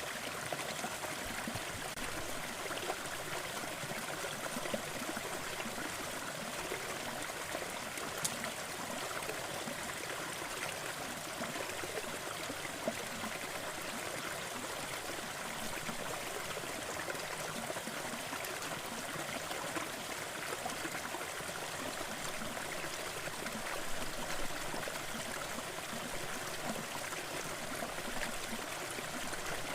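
Fireplace crackling: a steady rushing hiss with scattered small pops and snaps.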